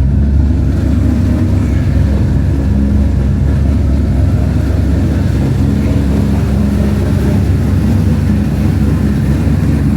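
2003 Ford Mustang SVT Cobra's twin-turbocharged 4.6-litre DOHC V8 idling steadily, a low, even note with no revving.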